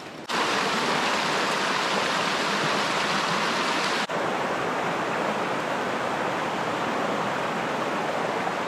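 River water pouring over a waterfall into a pool, a steady loud rush. It starts abruptly just after the beginning and drops out for an instant about four seconds in.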